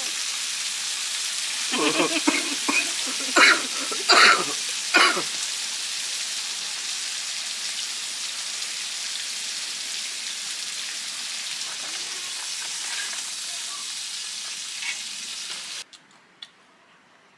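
Food sizzling in a hot pan, a steady hiss, with several clanks and scrapes of a utensil stirring it about two to five seconds in. The sizzling cuts off suddenly near the end.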